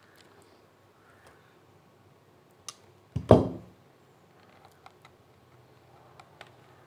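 Small hard objects being handled on a work surface: scattered light clicks, and one loud knock a little over three seconds in with a short ring that dies away.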